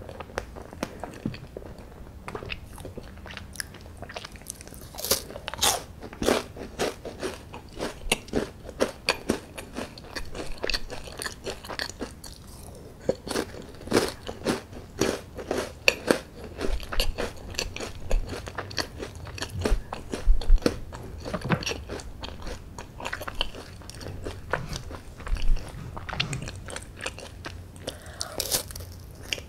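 Close-up mouth sounds of someone eating chocolate desserts: irregular wet chewing, lip smacks and small clicks. Near the end comes a crisp snap as a piece of chocolate bar is bitten off.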